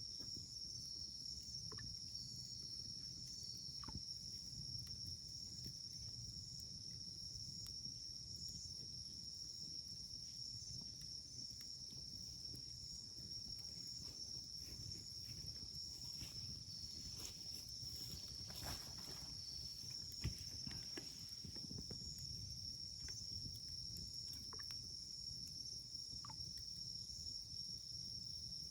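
Wood campfire burning with a low rumble and scattered soft crackles, one louder pop about twenty seconds in. Crickets trill steadily and high-pitched behind it.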